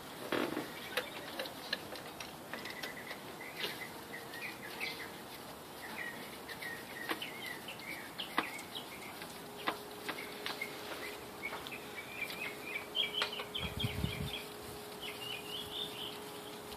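Birds chirping, with scattered sharp clicks and knocks.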